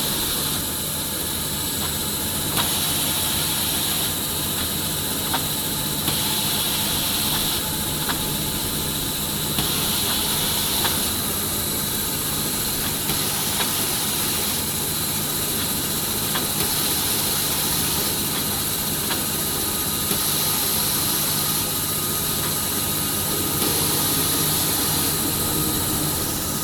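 Automatic band saw log-cutting machine for maxi-roll kitchen towel running with paper logs loaded: a steady machine hum and hiss, with a short knock every two to three seconds as the pusher feeds the log through the saw.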